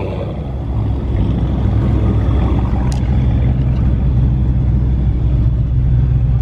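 Car engine running with a steady low rumble; a single sharp click about three seconds in.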